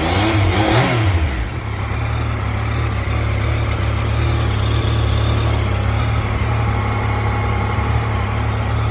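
2020 Yamaha XSR900's 847 cc inline three-cylinder engine: a short rev near the start falls back, then it idles steadily.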